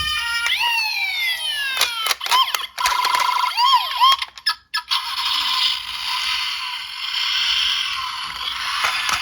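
Electronic police siren sounds: several falling sweeps, then a quick warbling wail broken by clicks, followed by a few seconds of steady hiss.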